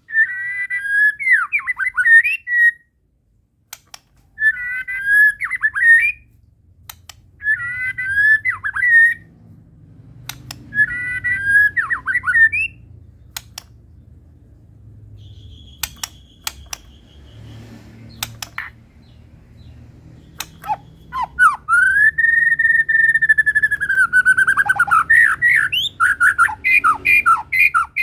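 White-rumped shama (murai batu) singing: four short, similar whistled phrases repeated a few seconds apart, with sharp clicks between, then a long held whistle a little past the middle that breaks into a run of quick varied notes near the end.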